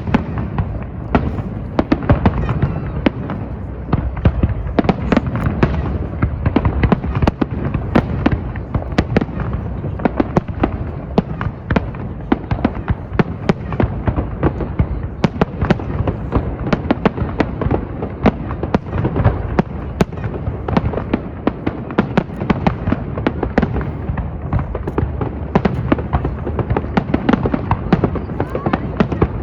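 Fireworks display at full intensity: a dense, continuous barrage of bangs and crackling shells with no pause, over a steady low rumble.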